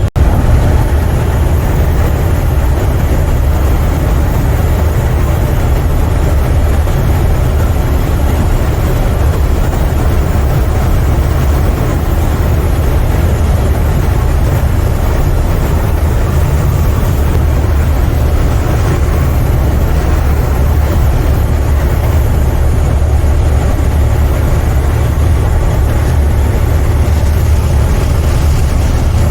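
Semi truck driving at a steady pace, heard from the cab: a constant low diesel engine drone with road noise.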